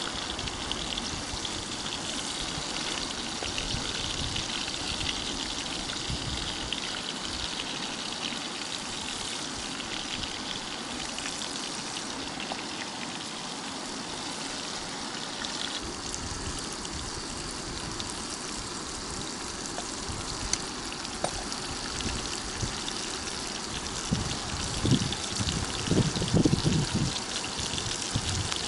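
Flour-dusted rotan frying in oil in a pan, with a steady crackling sizzle. A few louder bumps come near the end.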